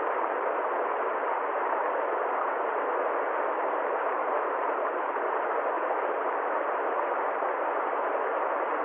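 A steady, unchanging hiss of noise with no separate events and no rise or fall.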